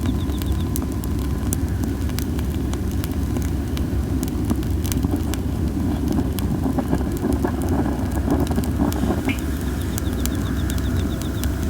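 Cherry-wood campfire crackling with frequent sharp pops over a steady low rumble of strong wind. The under-dried wood adds a hissing, and an insect sings a fast pulsed trill near the end.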